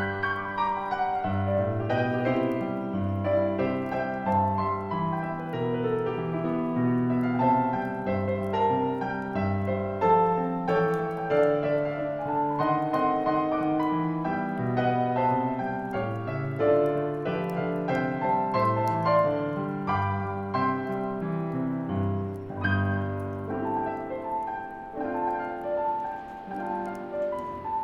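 Solo piano playing a gentle arrangement of a Christmas song, with faint crackling of a bonfire beneath it.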